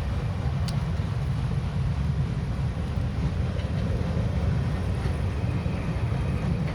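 Train running past with a steady, heavy low rumble.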